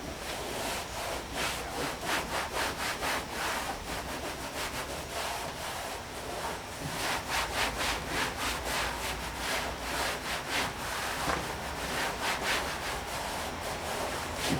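Hand scrubbing on the painted sheet-metal body of a 1959 VW single cab truck, in a steady rhythm of back-and-forth strokes, rubbing away the top layer to bring out the old patina.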